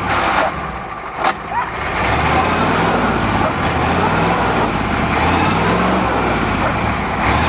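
Ford truck engine revving repeatedly in bursts that rise in pitch, over a steady noisy haze, as the truck sits stuck in the icy pond. A sharp knock sounds about a second in.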